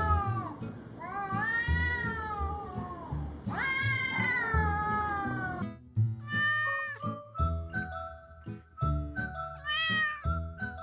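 Domestic cat meowing about four times: two long, drawn-out meows in the first half, then two shorter ones. Light background music with a beat plays underneath.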